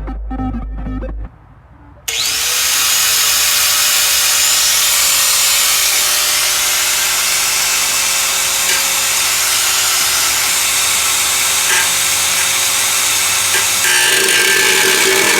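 A power tool spins up about two seconds in and runs steadily through the metal, a loud hiss with a steady whine over it.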